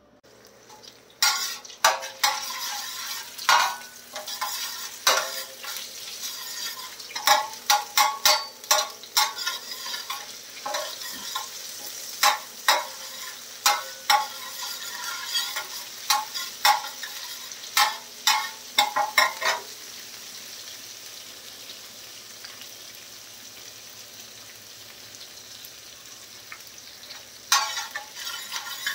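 Crushed garlic and green chillies sizzling in oil on a steel tawa, with a metal spatula scraping and clinking against the pan as they are stirred. The sizzle starts about a second in. The spatula strokes stop about two-thirds of the way through, leaving the steady sizzle, and start again near the end.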